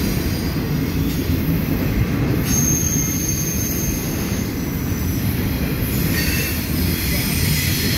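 Double-stack container well cars of a long freight train rolling past on the rails: a steady, continuous rumble of steel wheels on track. A thin, high-pitched whine joins in about two and a half seconds in and fades by about six seconds.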